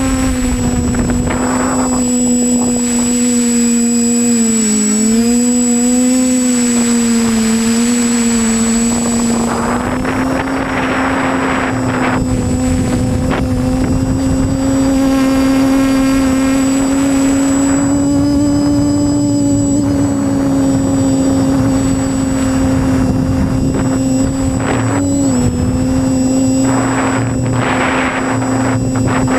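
Quadcopter's electric motors and propellers whining steadily, the pitch dipping and rising a little as the throttle changes. Bursts of rushing noise come and go a few times.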